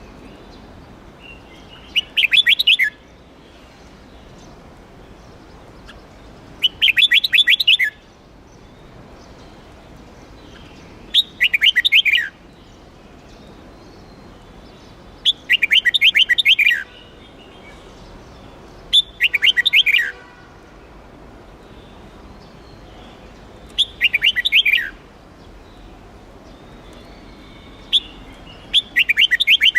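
Red-whiskered bulbul singing: seven short phrases of rapid, clear notes, each about a second long and falling away at the end, repeated about every four seconds.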